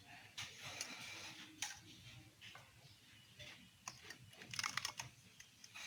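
Irregular light clicking and tapping, with a quick run of clicks about four and a half seconds in.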